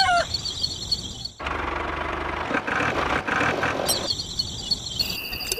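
Outdoor ambience with insects chirping in a steady, rapidly pulsing high trill and a short bird call right at the start. In the middle, a harsh rushing noise cuts in abruptly for about two and a half seconds and then stops, and the trill returns.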